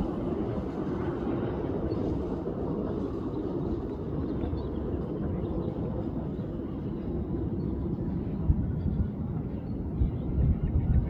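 Aircraft engine noise, a steady low noise without distinct tones that eases a little over the first few seconds.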